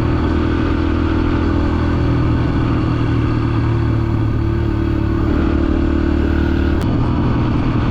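Small dirt bike engine running at a steady speed under way. About seven seconds in there is a brief click and the engine note changes.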